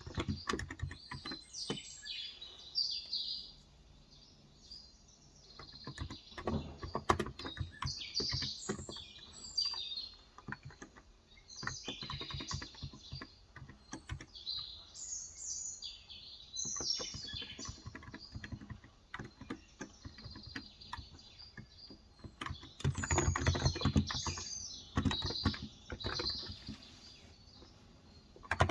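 Typing on a Cox Endeavour electro-capacitive (Topre-style) 35 g tenkeyless keyboard, coming in bursts of rapid key clicks, with small birds chirping and twittering throughout.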